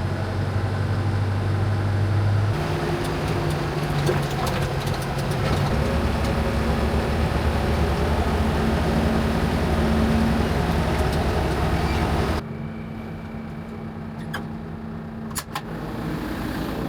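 Motor vehicle engine running with a steady hum that steps up in pitch twice early on, as if shifting or gaining speed, then cuts off suddenly about twelve seconds in. A quieter steady sound follows, with a few sharp clicks near the end.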